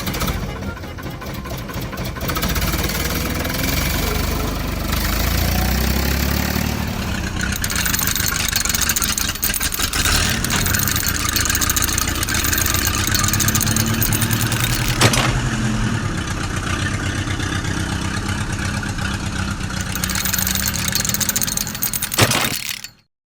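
A small engine running steadily, its pitch wavering a little, with a couple of sharp clicks. It cuts off abruptly near the end.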